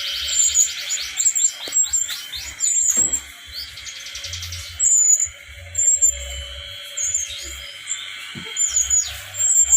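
Young, almost independent brown-chested jungle flycatcher calling: a fast run of short, falling high notes over the first few seconds, then short, high chirps repeated every second or so.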